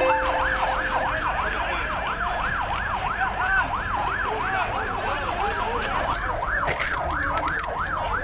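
Emergency vehicle siren in a fast yelp, sweeping up and down about three times a second.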